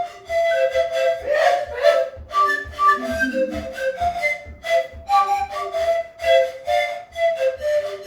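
Kugikly (Russian panpipes) played as a small ensemble: short, breathy whistle notes, with the parts interlocking on and off the beat in a syncopated, jazz-like tune. A steady low thud marks the beat underneath.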